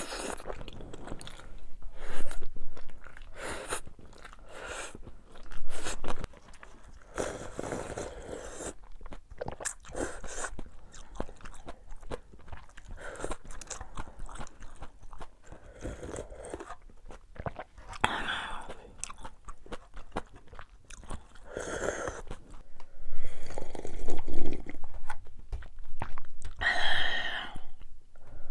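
Close-miked eating: crunchy bites and wet chewing of food, with many short crackling clicks and a few louder bites later on.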